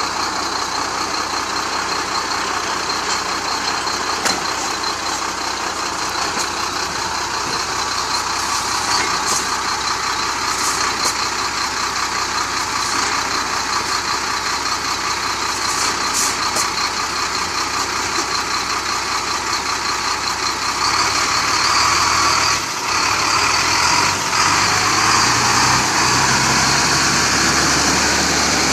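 Chenglong crane truck's diesel engine running steadily, growing louder and deeper about two-thirds of the way through.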